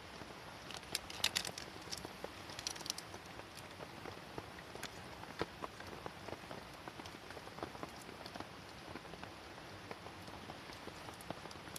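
Rain pattering steadily on canvas tent fabric, with scattered sharp ticks and taps; a denser cluster of clicks comes about a second in and another near three seconds.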